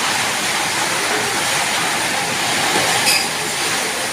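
Strong wind blowing, a steady rushing noise, with one brief sharp knock about three seconds in.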